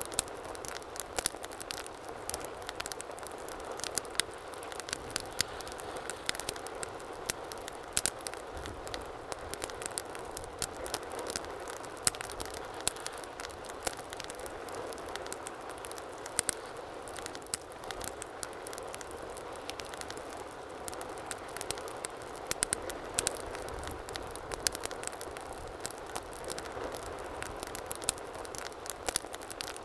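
Wood fire burning in a fireplace: a steady low rush of flames with frequent irregular crackles and pops from the burning logs.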